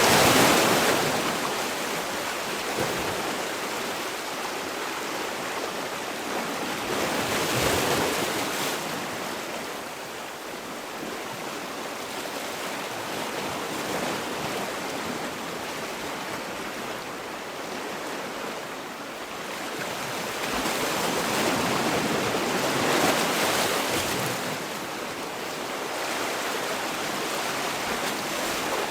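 Sea waves breaking and washing on the shore, the surf swelling and easing every several seconds.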